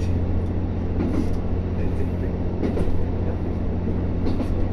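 Diesel local train running, heard from on board: a steady low drone of the railcar's engine and running gear, with a few brief knocks from the wheels on the track.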